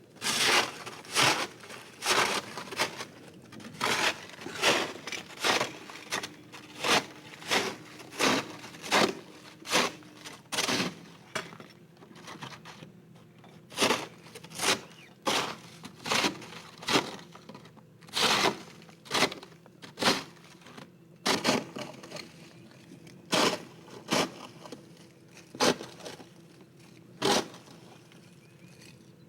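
Deep snow crunching in a long run of short strokes, about two a second at first and slowing to about one a second about halfway through.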